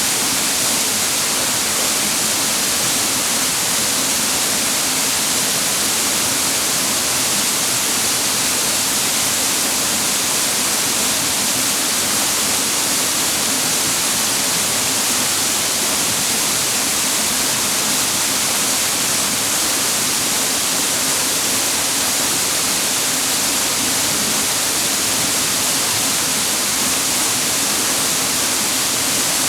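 Rushing water of a clear mountain stream fed by a waterfall: a steady, even hiss with no change or break.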